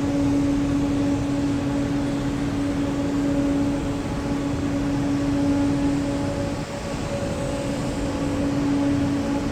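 Steady machinery hum of a coal-fired power plant: one constant droning pitch over a broad rumble.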